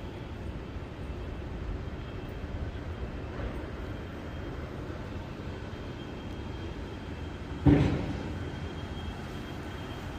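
Steady low rumble of an underground railway station's ambience, with one loud thump about three quarters of the way through that rings on briefly.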